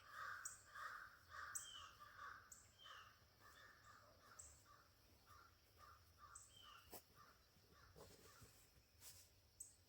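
Faint bird calls repeating about twice a second, dying away after about three seconds. Faint short high chirps and a few soft ticks run through the rest.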